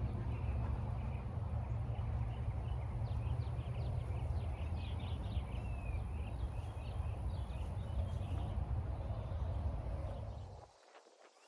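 A low, steady rumble with birds chirping over it from about three to seven seconds in; the rumble cuts off suddenly near the end.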